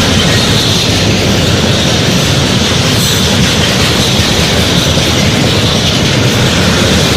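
2TE116U twin-section diesel locomotive running. It gives a loud, steady rumble with a hiss above it that does not let up.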